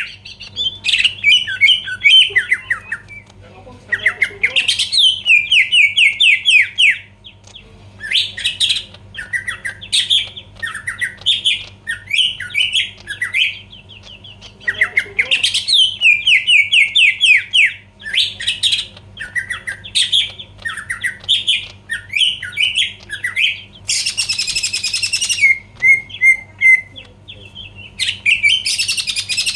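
Green leafbird (cucak ijo) singing loudly in rapid phrases of fast repeated whistled notes, broken by short pauses. A harsh, raspy call cuts in about 24 seconds in and again near the end.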